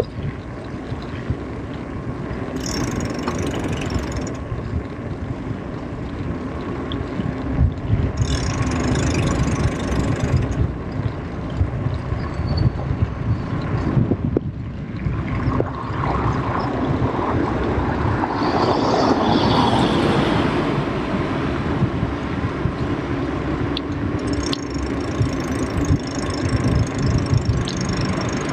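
Wind buffeting the microphone during a bicycle ride, a steady rough rumble that swells slightly near the middle, with brief high-pitched sounds coming and going in the background.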